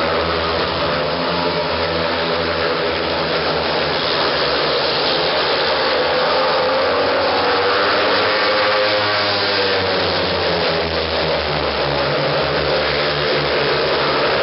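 Several speedway bikes racing on the dirt track, their 500cc single-cylinder methanol-burning engines running hard, with the pitch rising and falling as the riders throttle on and off through the corners.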